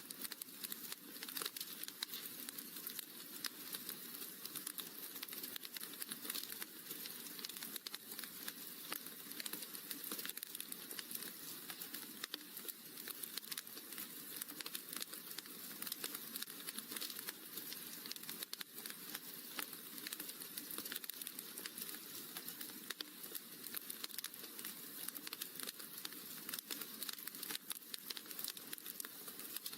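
Wood fire crackling in a fireplace: a steady, dense run of small pops and snaps.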